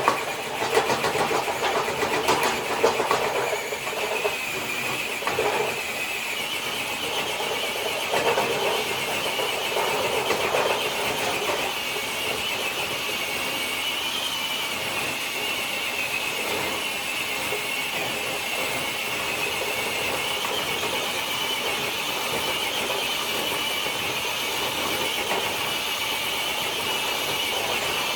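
Small electric RC crawler truck's motor and geartrain whining steadily under load as it drags a weighted dead sled across concrete, with the sled's rough scraping underneath. The pull is louder and rougher for the first few seconds, then settles into an even whine.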